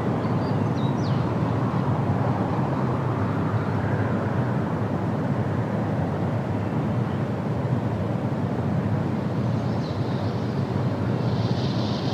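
Steady wind through the trees with a deep rumble underneath, and a few short bird chirps in the first second and again near the end.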